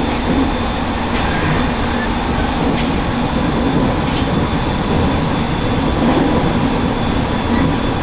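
Steady running noise of a moving passenger train heard from inside the carriage: wheels rumbling on the rails, with a couple of faint clicks.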